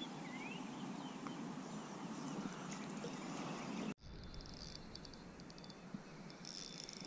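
Creekside outdoor ambience: a low steady rush with a few short bird chirps. It breaks off suddenly just before four seconds in, giving way to a high insect buzzing with rapid fine ticks.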